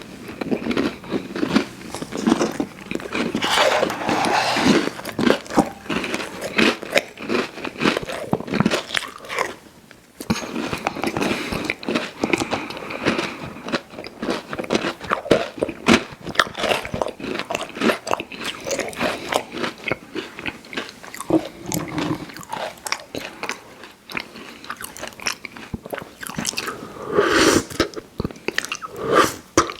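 Close-miked biting and chewing of a crunchy fast-food dessert pie: a dense run of crisp crunches and mouth sounds, with a brief lull about ten seconds in.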